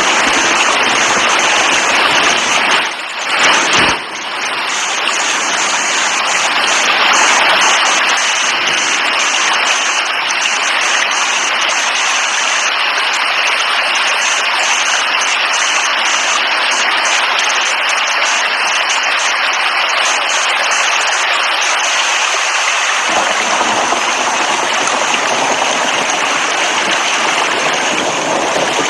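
Steady heavy rain, a dense even hiss of falling water, dipping briefly about three seconds in.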